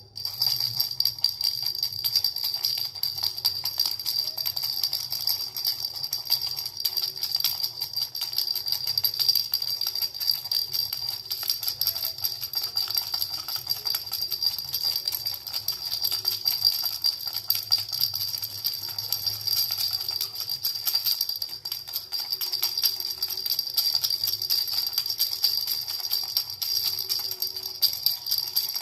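Baby's hand rattle with small bells shaken without pause: a dense, steady jingling with a high ringing.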